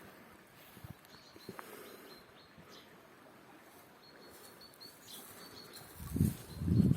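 Small birds chirping faintly, short high notes in quick runs. Near the end, a few loud low thumps.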